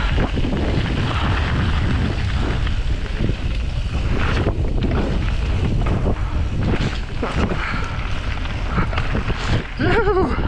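Wind buffeting the microphone of a camera on a mountain biker descending fast, over the running noise of knobby tyres on dirt and the bike knocking and rattling over bumps. A brief vocal exclamation comes near the end.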